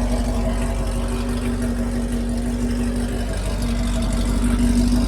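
Chevrolet Camaro SS V8 with a catless exhaust idling steadily, with a deep, even rumble.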